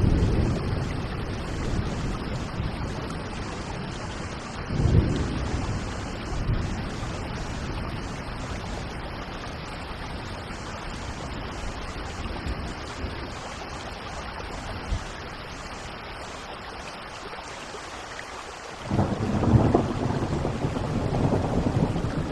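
Steady heavy rain with thunder: a low rumble about five seconds in, and a louder roll of thunder that breaks in suddenly near the end.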